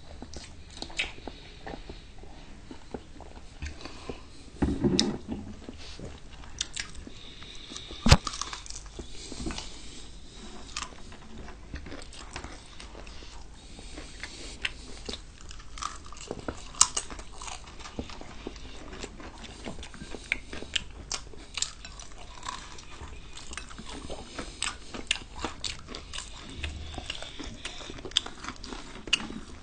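Close-miked eating: chewing and crunching on KFC fried chicken and fries, with many small crackles and mouth clicks. One sharp knock stands out about eight seconds in.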